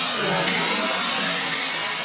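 Electric RC buggies running on the track: a steady, high whine from the brushless motors, with tyre noise underneath.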